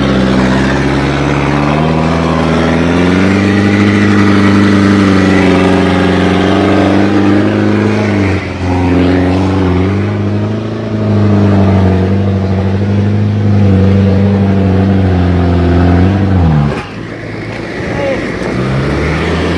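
Mitsubishi Canter dump truck's diesel engine revving hard under load as it struggles up a wet, muddy road. The revs climb in the first few seconds, dip briefly about eight seconds in, hold high again, then drop sharply a second or so before picking up near the end.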